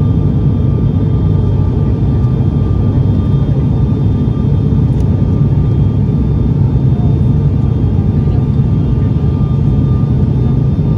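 Cabin noise of an ATR 72 turboprop airliner in flight: a loud, steady drone from the engines and propellers, with a thin steady whine above it.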